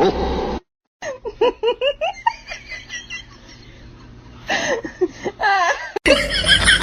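People laughing in short bursts, broken by a sudden cut to silence near the start.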